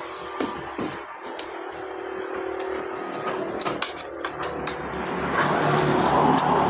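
Scattered clicks and taps of eating: utensils on a plate and chewing. From about four seconds in, a steady hum grows louder.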